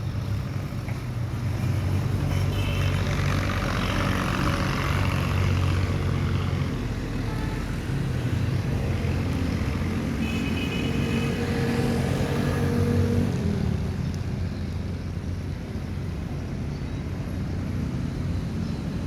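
Steady low, engine-like rumble, its pitch shifting every few seconds, with a few faint higher tones over it.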